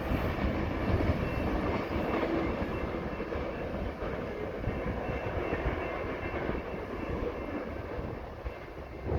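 Freight train rolling past, its cars giving a steady low rumble and wheel noise that slowly fades. Faint high thin tones come and go over it.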